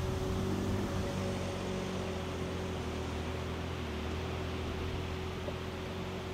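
A small motor running with a steady hum and whine, which winds down and stops near the end.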